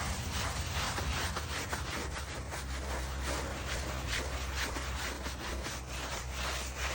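Brush scrubbing a stone surface in quick back-and-forth strokes, about three a second, steady throughout.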